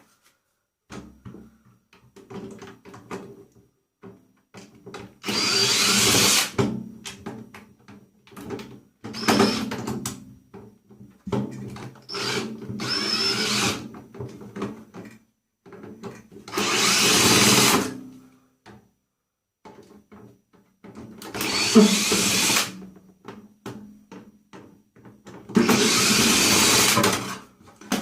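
Power drill running in six short bursts of a second or two each, with small clicks and knocks of parts being handled in between.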